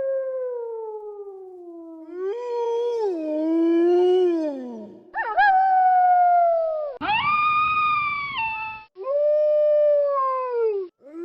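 Wolves howling: a series of long howls, one after another, each sliding in pitch, mostly rising briefly and then falling away. A howl fades out over the first two seconds, and about four more follow, some starting or stopping abruptly.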